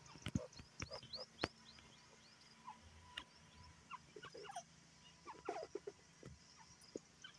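Scattered soft bird chirps and short calls, with a quick run of high downward-sliding notes in the first second and a half and more brief calls later, punctuated by a few sharp clicks.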